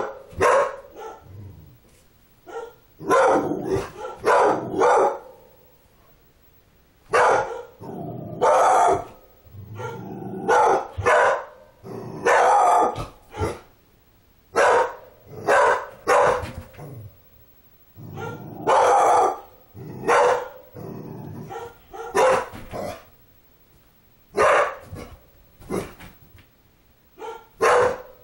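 Dog barking in short runs of two or three loud barks every couple of seconds, with lower growling between: a frightened dog barking at a doll being moved in front of it.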